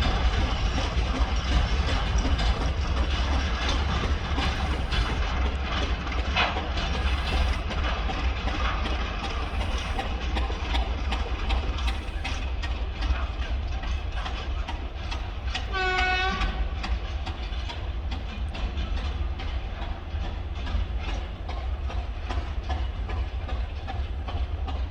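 Freight train behind a ChME3 diesel shunting locomotive rolling past, with a steady low rumble and wheels clicking over the rail joints. About two-thirds of the way through, the locomotive gives one short horn toot.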